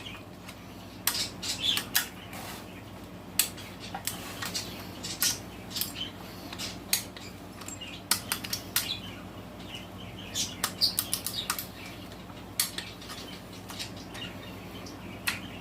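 Torque wrench and socket working the cylinder head bolts of a small garden-tractor engine as they are rechecked at low torque: scattered, irregular metal clicks and clinks over a low steady hum.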